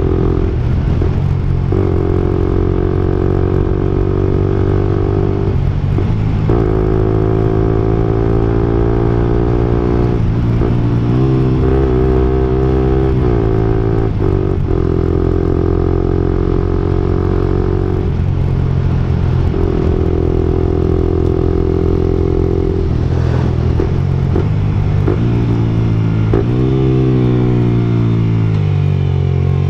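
Suzuki 125 cc single-cylinder motorcycle engine (GSX-R125/GSX-S125) running through an aftermarket Akrapovic-style slip-on exhaust while riding. The pitch climbs through each gear and dips at each shift, several times over, with the throttle opening and closing.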